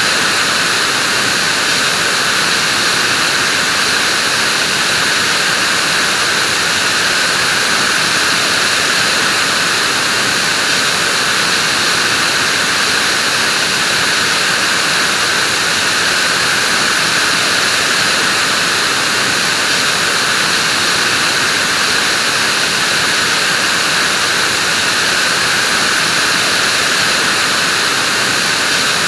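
Vacuum cleaner running continuously, a steady whooshing hum with a prominent hiss and no change in pitch or level.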